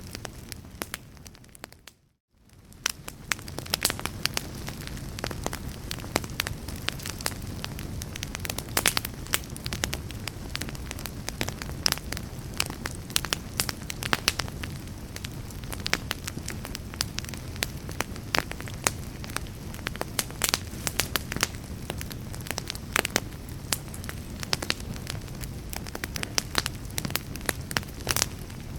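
Wood fire burning in a fireplace, crackling with frequent sharp pops over a steady low hiss. About two seconds in, the sound fades to near silence for a moment and then fades back up.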